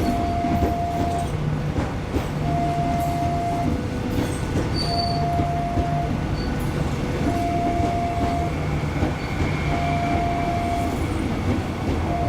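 KRL electric commuter train pulling into a station platform, with the steady running rumble of the train. Over it, an electronic two-tone signal alternates between a higher and a lower pitch, each tone lasting a little over a second.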